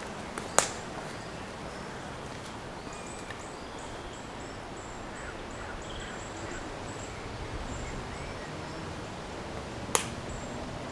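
Outdoor ambience: a steady low rumble of wind and background noise with faint, high bird chirps scattered through it. Two sharp clicks stand out, one about half a second in and one near the end.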